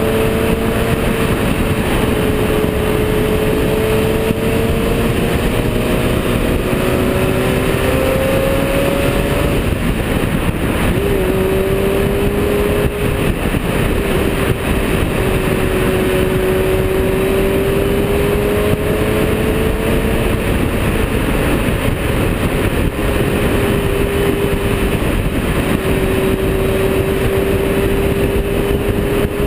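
Ferrari 348 GTS's V8 engine running through a Tubistyle exhaust while the car drives, its note slowly rising and falling with the throttle, with a short jump in revs about eleven seconds in. Heavy wind and road noise on the microphone mounted low on the car's outside beside the wheel.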